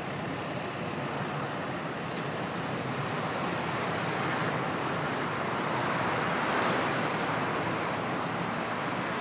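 A train running by with a steady rushing rumble that swells about six to seven seconds in, and a brief hiss about two seconds in.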